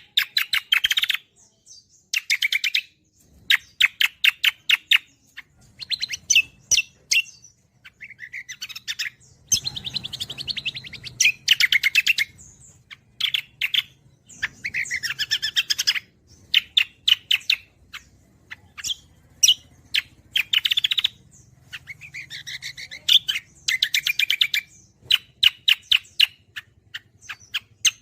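Cucak kombo singing continuously: fast, rattling chattering trills in bursts of a second or two, broken by short pauses, starting abruptly at the beginning.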